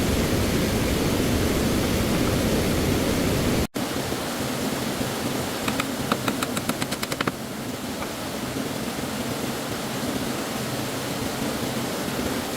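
Rushing stream water as a steady hiss, cut off abruptly a little after three seconds and followed by a quieter, thinner water hiss; about two seconds later comes a quick run of light clicks or taps lasting under two seconds.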